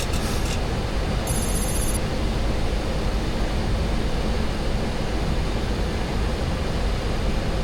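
Steady flight-deck noise of a Boeing 737-800 on approach: engines and airflow making an even rush. About a second and a half in, a short run of rapid, high-pitched beeps sounds for under a second.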